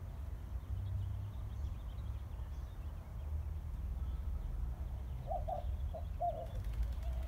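Outdoor ambience with birds calling: faint small chirps, then a few short calls about five seconds in, over a steady low rumble.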